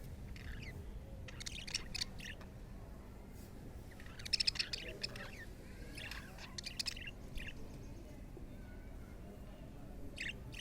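Budgerigars chirping in short bursts of quick, high chirps, a few clusters a couple of seconds apart.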